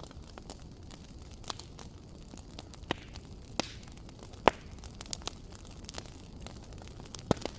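Wood fire crackling in a fireplace: irregular sharp snaps and pops over a steady low rumble of burning, with the loudest pop about halfway through and another near the end.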